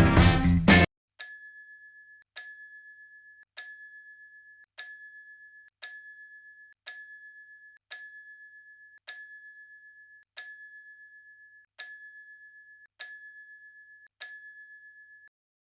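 A small bell-like ding struck about twelve times, roughly once a second, each strike ringing out briefly; music cuts off just before the first ding.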